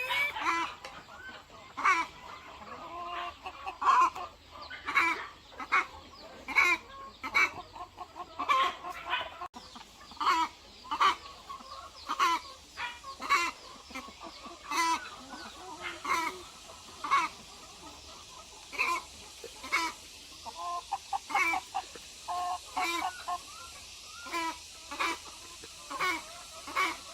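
A flock of hens clucking, many short calls overlapping one after another.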